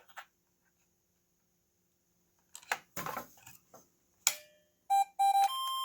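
Circuit-bent Golden Big Bird Talking Bingo electronic toy: a few clicks from probing its board, then two short beeps through its speaker and a steady held electronic tone near the end. The beeps and stuck tone are a glitch from probing the circuit just shy of a short.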